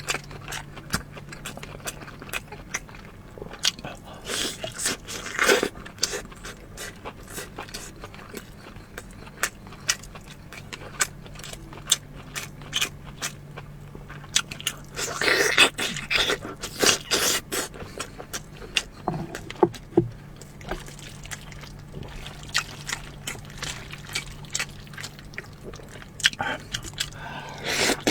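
Close-miked eating sounds: a steady run of sharp clicks from chewing and mouth sounds, with louder stretches of biting and crunching about four to six seconds in and again around fifteen to eighteen seconds.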